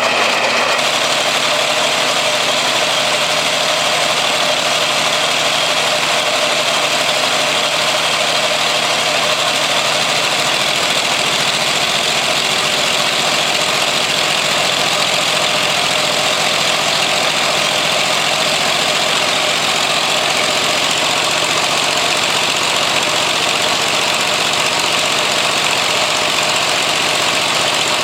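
Homemade twelve-cylinder engine built from Briggs & Stratton small engines, running steadily through open exhaust pipes with no mufflers. The engine sound is loud and even, with no change in speed.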